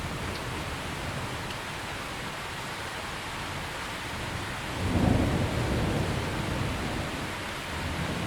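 Steady heavy rain, with a low roll of thunder that swells suddenly about five seconds in and rumbles on, fading, through the rest.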